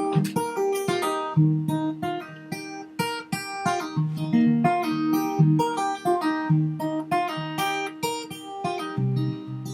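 Acoustic guitar played solo, fingerpicked and strummed notes over a repeating bass line.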